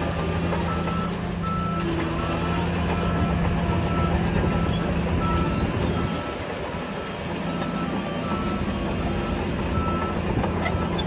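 A heavy earthmoving machine's diesel engine running steadily while a reversing alarm beeps at an even pace, about two beeps a second. The engine drone eases for a moment about six seconds in, then picks up again.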